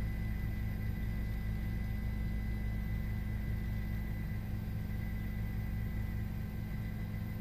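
A steady low drone with a faint, even high whine above it, unchanging throughout.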